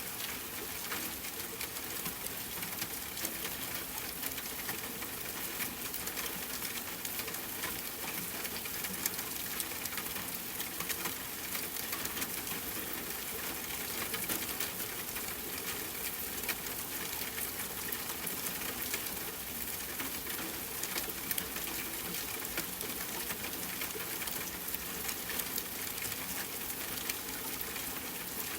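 Steady rain falling, mixed with the crackle of a campfire: an even hiss with many small sharp pops and snaps scattered throughout.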